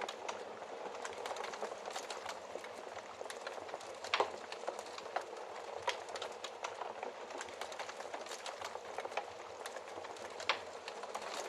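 Wood fire crackling steadily in a fireplace: a dense run of small snaps over a soft hiss, with a few louder pops, the sharpest about four seconds in and another near the end.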